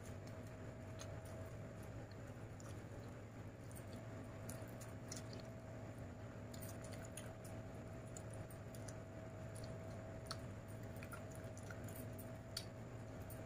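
Close-up eating sounds: chewing, with small wet clicks of the mouth and of fingers mixing rice and chicken curry, over a steady low hum.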